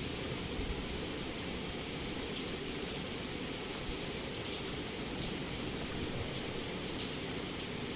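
Heavy rain falling steadily against a window, a constant hiss with a few sharper drop ticks on the glass in the second half.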